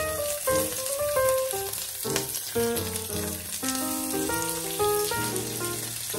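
Razor clams sizzling and crackling on a hot oiled grill pan as a garlic, parsley and olive-oil dressing is spooned over them, with background music of short held notes.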